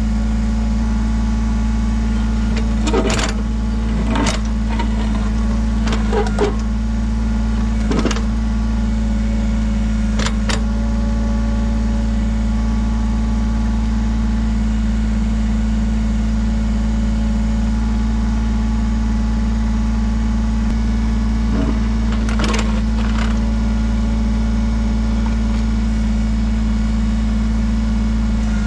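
Kubota BX23S compact tractor's three-cylinder diesel engine running steadily, with a few sharp knocks and clanks from the backhoe digging in rocky ground, most in the first ten seconds and one more later on.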